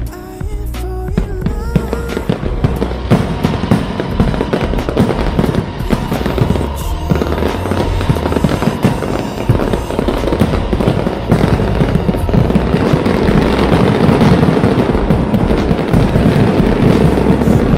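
Fireworks display going off in a dense, continuous run of bangs and crackling, with music playing underneath.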